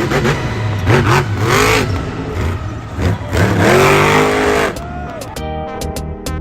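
Car engine revving, rising and falling in pitch several times in a row. Music comes back in near the end.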